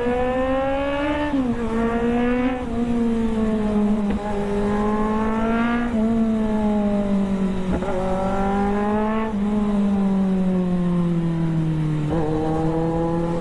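Superbike engine running under way, its pitch climbing under throttle and dropping sharply at gear changes about a second and a half and two and a half seconds in, then wavering and easing off slowly toward the end.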